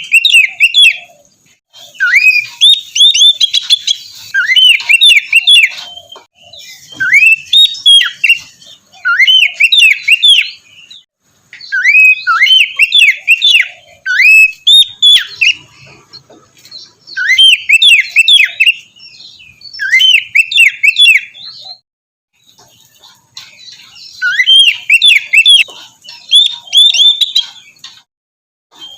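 Oriental magpie-robin singing: repeated loud phrases of quick, sweeping whistled notes, each phrase a second or two long, separated by short pauses. A faint steady high buzz sits behind some phrases.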